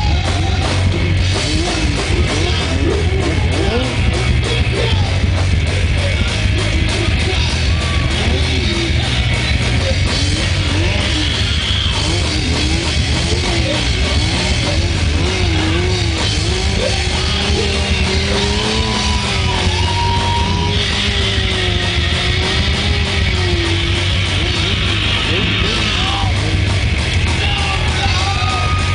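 Rock music with guitar, drums and a singing voice, steady and loud throughout.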